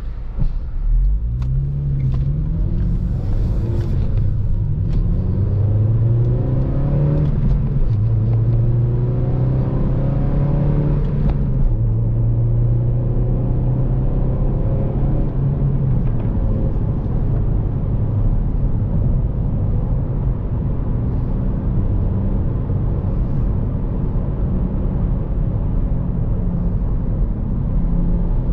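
Honda Civic Si's four-cylinder engine pulling up through the gears, its pitch climbing and then dropping back at each shift of the manual gearbox during the first ten or so seconds. It then settles into a steady cruise over a constant road and tyre rumble.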